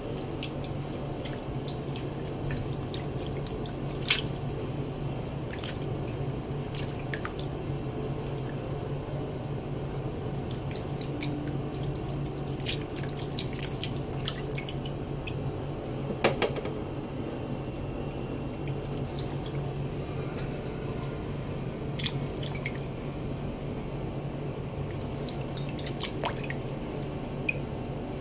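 Grapes being washed by hand in water: scattered small splashes and drips, with a sharper splash or knock about 4 s and again about 16 s in, over a steady low hum.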